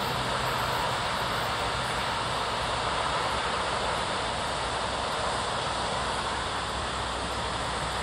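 Passing train: a steady rolling rumble and rail noise that eases slightly near the end.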